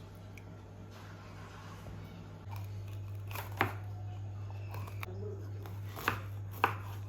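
Cooking handling sounds: a few sharp clicks and knocks over a steady low hum that grows louder about two and a half seconds in.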